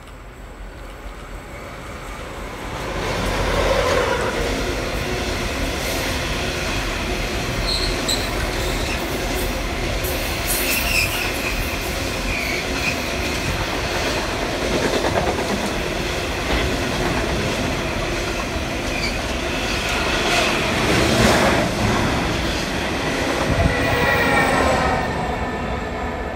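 A freight train passing, headed by two 81 class diesel-electric locomotives, then its wagons rolling by with clickety-clack over the rail joints and repeated high-pitched wheel squeal. The sound builds over the first few seconds, then stays loud and steady.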